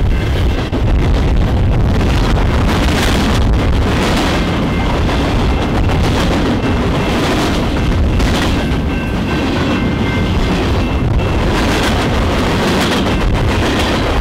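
Freight train of tank cars and covered hoppers rolling past: a loud, steady rumble with a continuous clatter of steel wheels over the rails.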